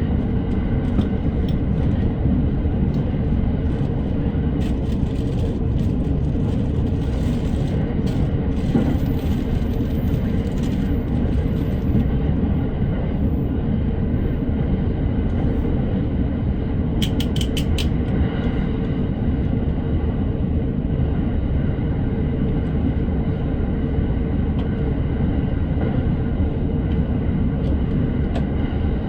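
Electric commuter train running at speed, heard from inside the car: a steady low rumble of wheels on rail with a faint steady hum above it. A quick run of clicks comes about seventeen seconds in.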